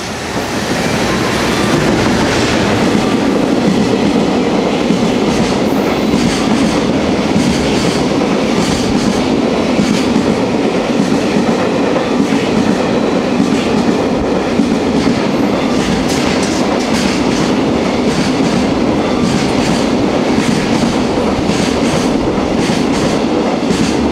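Freight train of container wagons hauled by a JR Freight EF210 electric locomotive passing through a station. Heavy steady rumble of steel wheels on rail with a clickety-clack over the rail joints, swelling to full about a second in and holding steady.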